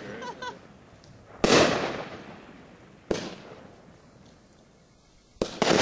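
Fireworks going off: three sharp bangs, each fading away over about a second. The first comes about a second and a half in and is the loudest, a weaker one follows about three seconds in, and another loud burst comes near the end.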